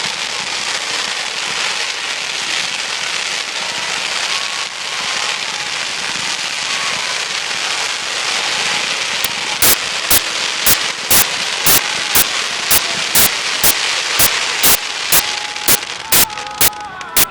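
Fireworks display: a dense, continuous crackling from crackle-effect shells, and from about halfway through a rapid run of sharp, loud bangs, about two a second, over the crackle.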